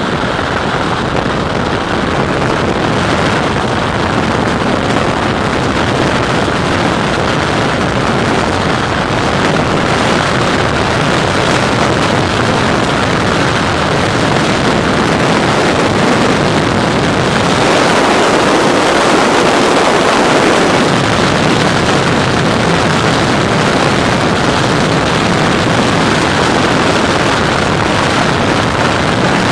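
Loud, steady rush of wind over a skydiver's camera microphone in freefall, swelling slightly about two-thirds of the way through.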